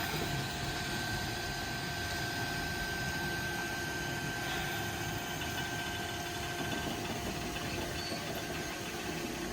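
Heritage train idling: a steady engine rumble and hiss with a few faint steady tones above it.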